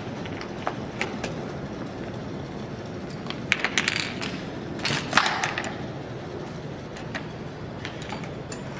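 Small parts of a domino chain-reaction machine clicking and clattering: a couple of single clicks early on, then a burst of rattling clicks a few seconds in and another about five seconds in, over a steady background hum.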